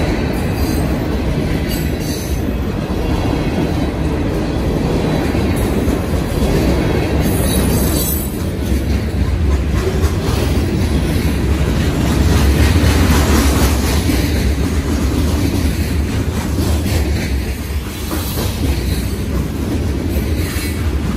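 A train rolling past on the rails: a steady, loud noise of wheels on track, heaviest in the low end and loudest a little past the middle.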